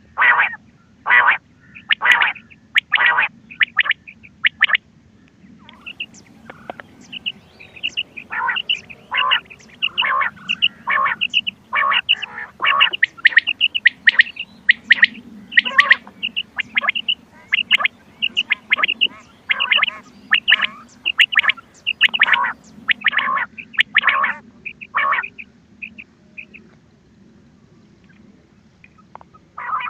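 Recorded quail calls from a hunting lure tape: a run of short, sharp call notes, evenly spaced at about one and a half a second. These are followed by a faster, busier series of higher-pitched notes, which stops a few seconds before the end and starts again at the very end.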